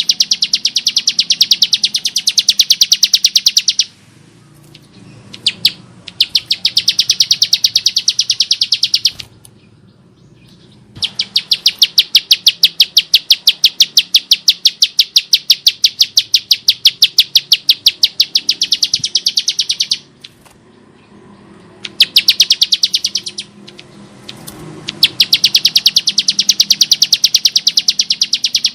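Bar-winged prinia (ciblek sawah) calling in long runs of rapid, harsh, evenly repeated notes, broken by a few short pauses.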